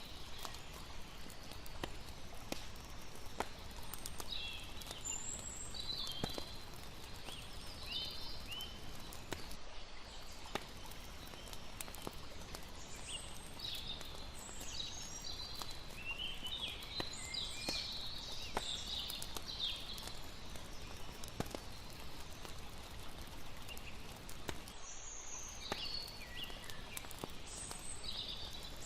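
Layered night ambience: a campfire crackling with scattered sharp pops and high chirping calls in clusters, over a steady lapping-water hiss.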